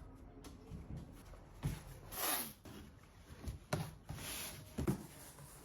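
Hand woodworking: a few sharp knocks and two rasping, scraping strokes, each well under a second long.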